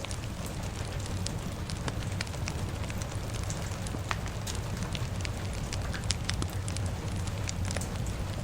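Crackling fire with steady rain: sharp, irregular pops and snaps over a constant hiss and low rumble.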